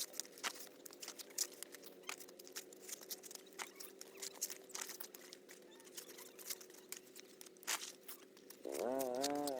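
Dry corn husks and leaves rustling and crackling as they are handled, with many small irregular crunches. Near the end a loud pitched, wavering call starts.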